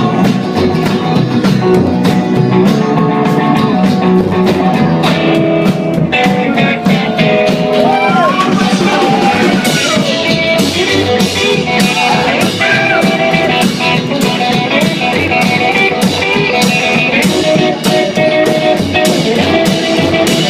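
Live rock band playing: electric guitar over a steady drum beat, with the guitar bending notes through the middle stretch.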